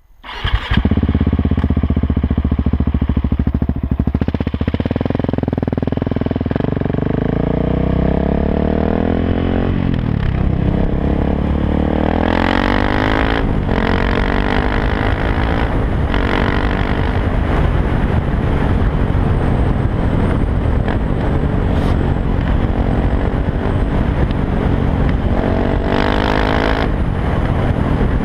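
KTM 690 SMC R supermoto's single-cylinder engine through an open Arrow exhaust with the dB killer removed, running loud, its note climbing and dropping several times as the revs rise and fall.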